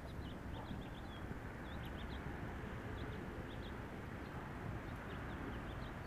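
Small birds chirping, many short high chirps scattered throughout, over a steady low outdoor rumble.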